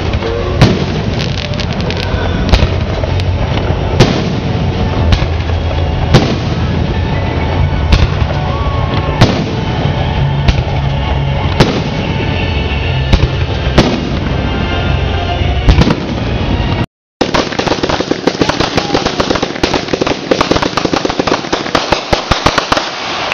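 Fireworks finale: a rapid string of bangs over a continuous rumble. After a brief break about 17 seconds in, the bangs give way to dense, fast crackling.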